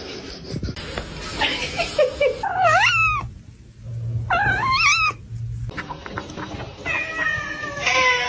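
A cat yowling twice, two long calls that waver up and down in pitch, each lasting under a second, about three and four and a half seconds in.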